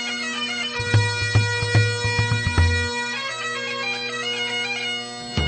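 Bagpipe music: a steady drone under a changing melody, with a run of drum beats from about a second in to about three seconds in.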